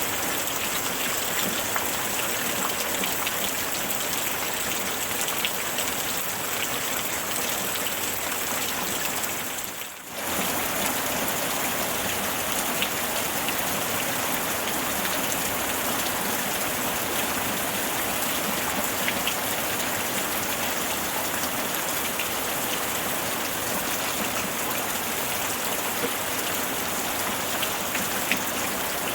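Steady rain falling, a continuous hiss with scattered drop ticks. About ten seconds in it briefly dips in level and comes back.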